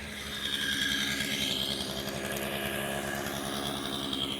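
Chainsaw engine running at a steady speed.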